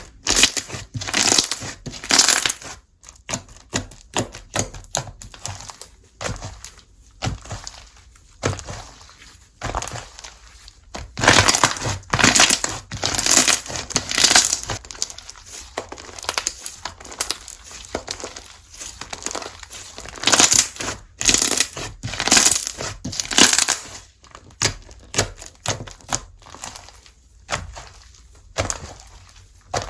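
Slime being squeezed and pressed by hand, giving repeated crackling, squishing bursts, roughly one a second with some louder clusters.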